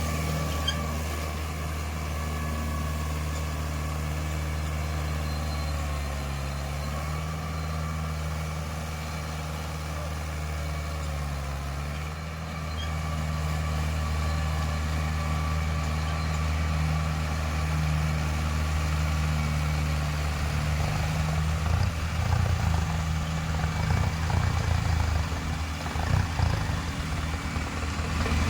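Mahindra 575 tractor's diesel engine running steadily while it pulls a tiller through a field. From about two-thirds of the way through, the sound turns choppier, uneven and a little louder.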